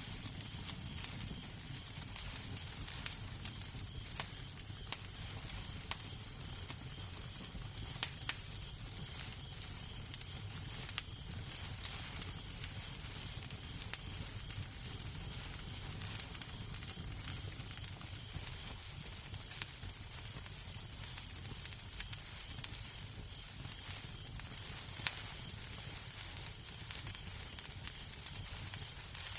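Wood fire crackling in a fireplace: irregular sharp pops and snaps over a steady low rumble and soft hiss.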